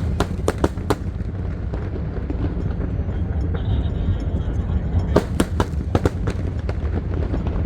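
Fireworks bursting overhead in a rapid string of sharp cracks near the start, then another cluster of cracks about five seconds in, over a steady low rumble.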